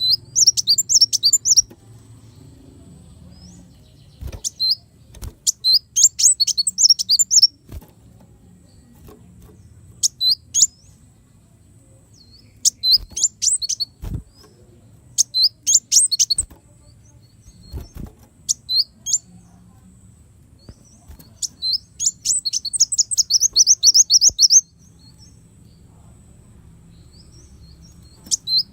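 Sunbird (kolibri wulung) singing in bouts of rapid, high, sharp chirping notes separated by short pauses, with one longer fast trill near the end.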